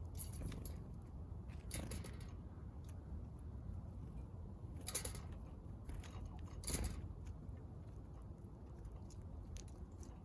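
Small backyard birds pecking at seed: four brief scratchy pecks or rustles, the loudest about two-thirds of the way in, with a few faint ticks near the end, over a low steady rumble.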